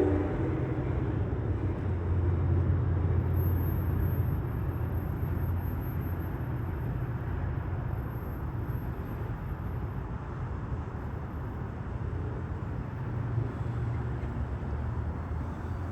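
Train running by with a steady low rumble just after its horn stops, easing off a little toward the end.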